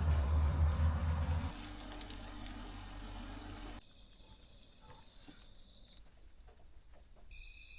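A vehicle engine running with a low, steady hum and hiss, dropping to a quieter hum after about a second and a half. It cuts off suddenly about four seconds in, leaving near quiet with faint steady high-pitched tones.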